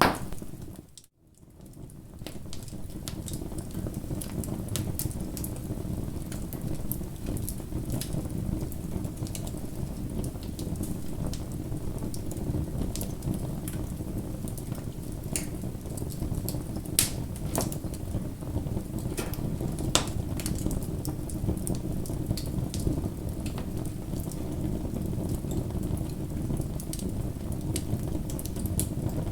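Bonfire burning: a steady low rush of flames with scattered sharp crackles and pops. A loud pop opens it, then the sound drops almost to nothing about a second in and fades back up within a second.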